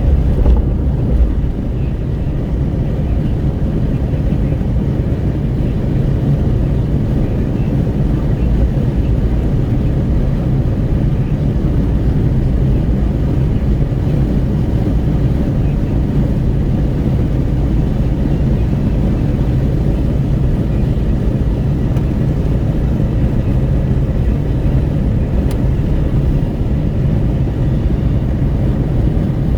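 Steady wind buffeting through the open window of a moving Renault Kwid at highway speed, with road noise underneath.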